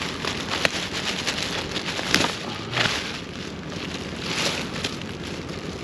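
Plastic trash bag rustling and crinkling as it is opened and rummaged through, in repeated swishes with a few sharp crackles.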